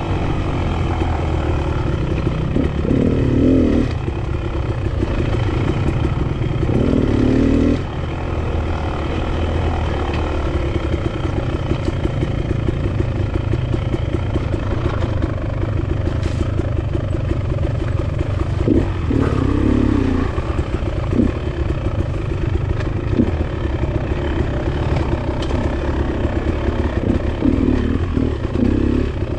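Enduro dirt bike engine revving up and down while riding single track, with louder bursts of throttle about three seconds in, around seven seconds, around nineteen seconds and near the end. Occasional sharp knocks from the bike over rough ground.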